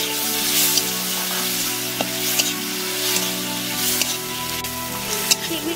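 Tomatoes and fried onions sizzling in oil in a metal kadai, with a metal spatula scraping the pan several times as they are stirred. Background music plays underneath.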